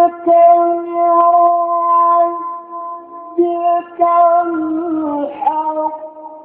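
A male Quran reciter chanting in the melodic mujawwad style, holding long, steady high notes on drawn-out syllables. The voice breaks off briefly about three seconds in, then returns with an ornamented wavering dip in pitch before fading near the end.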